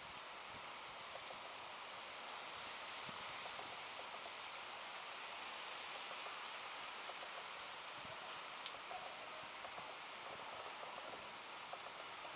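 Steady rain falling during a thunderstorm, with scattered drops ticking sharply on a nearby surface, two of them louder about two seconds in and again past eight seconds.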